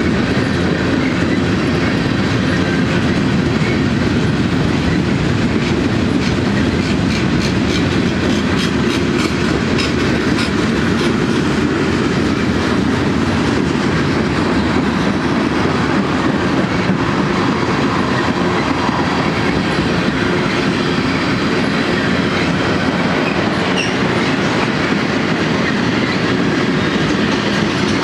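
Freight cars of a mixed manifest train rolling steadily past, their wheels clicking and clattering over the rail joints in a continuous rumble.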